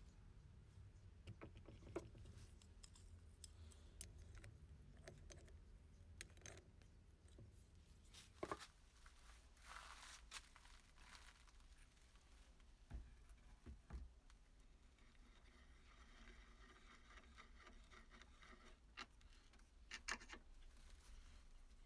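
Near silence with faint, scattered clicks and light scrapes, a few of them sharper.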